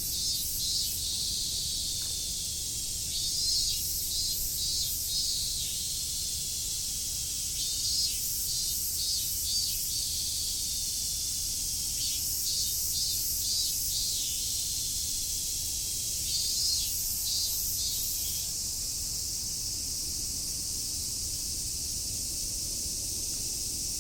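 Robust cicada (minmin-zemi) calling in short pulsed phrases, a few quick high notes each, repeated about every four to five seconds and stopping a little past three quarters of the way through. A steady high hiss runs underneath.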